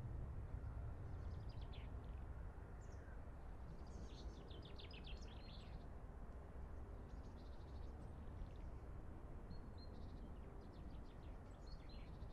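Songbirds singing short phrases of rapid high notes, several times over, above a steady low rumble.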